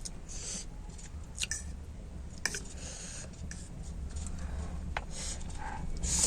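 Close-miked mouth sounds of eating instant noodles: wet chewing with scattered short clicks and brief hissy bursts, the loudest near the end.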